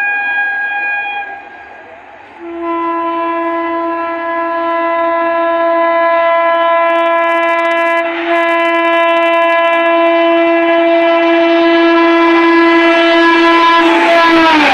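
Locomotive horn of an express train approaching at speed: a short blast, then one long steady blast of about twelve seconds that drops in pitch near the end as the locomotive passes, giving way to the rush of the train going by.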